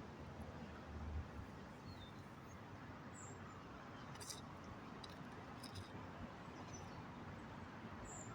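Faint outdoor ambience: steady hum of distant main-road traffic, with a few short, high bird chirps.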